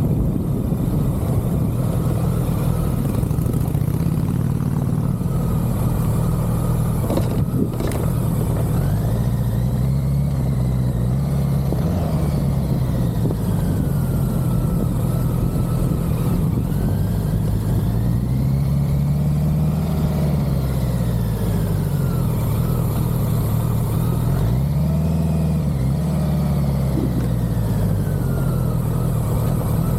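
Motorcycle engine running at road speed under steady wind rush, its pitch rising and falling three times as it revs up and eases off.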